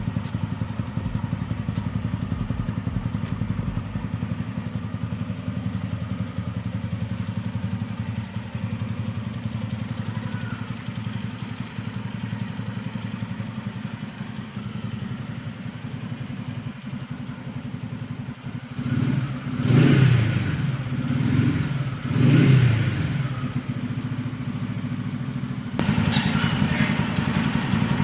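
TVS Ronin 225cc single-cylinder motorcycle engine idling steadily, blipped three times in quick succession about two-thirds of the way in. Near the end there is a brief knock, after which the idle runs a little louder.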